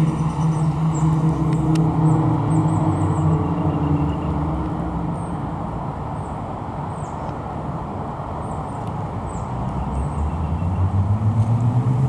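1997 BMW Z3's 2.8-litre inline-six engine running as the car is driven: the engine note eases off and drops for a few seconds in the middle, then rises in pitch and loudness again near the end as it accelerates.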